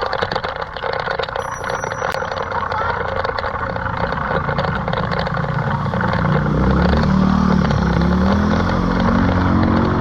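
A motor vehicle's engine comes in about halfway through, growing louder and rising in pitch. Under it runs a steady crackling rumble of the ride on a rough road.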